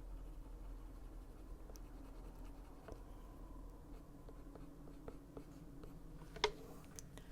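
Colored pencil scratching lightly on paper in small strokes, with faint ticks and one sharper click about six and a half seconds in.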